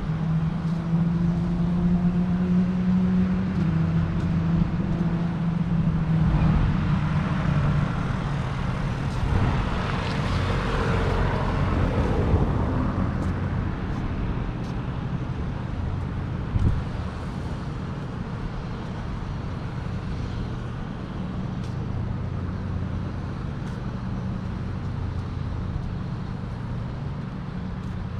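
Road traffic noise: a motor vehicle's engine hums steadily for the first several seconds, a vehicle passes loudly at around ten to twelve seconds, and a steady traffic rumble follows, with one brief knock partway through.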